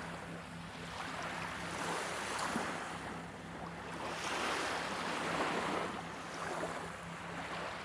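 Small waves washing onto a beach, the surf noise swelling and fading about every two seconds.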